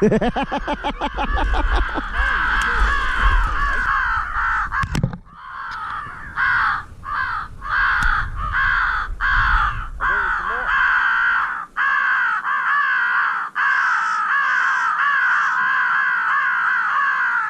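Crows cawing in a dense, continuous chorus of harsh repeated caws, broken by a few short pauses.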